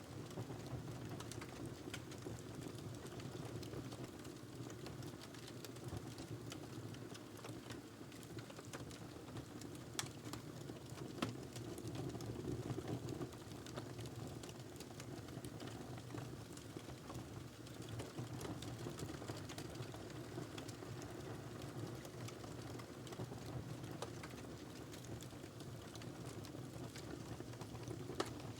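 Wood fire in a fireplace burning steadily, a low hiss and rumble under many small crackles, with a couple of sharper pops about ten and eleven seconds in.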